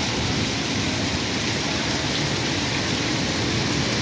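Heavy rain pouring steadily onto a flooded street, a dense, even hiss of downpour that doesn't let up.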